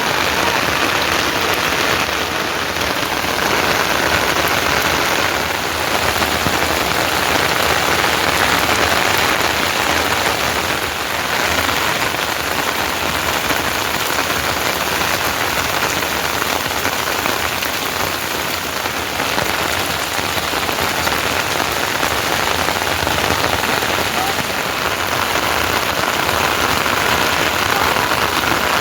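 Steady monsoon rain falling on surfaces, a dense even hiss with no pauses.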